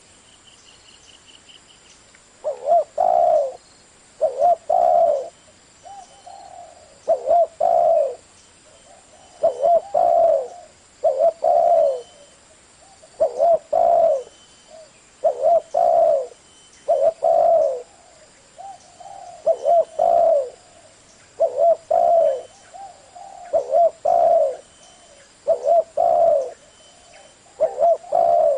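Spotted dove cooing: short phrases of low, rolling coos, mostly pairs of notes, repeating about every two seconds after a pause at the start. A faint high chirping trill sounds about a second in.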